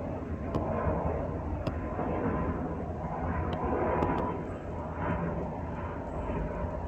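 Steady rumbling noise of a jet airliner, with a few faint clicks.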